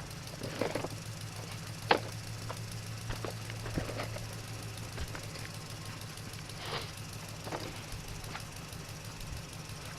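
Steady low motor hum with scattered light clicks and knocks, and one sharper click about two seconds in.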